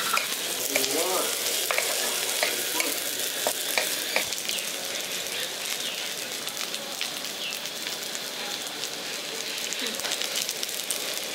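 Cubed onion and capsicum sizzling in hot oil in a wok: a steady frying hiss. In the first few seconds a wooden spatula stirring them gives a few light clicks against the pan.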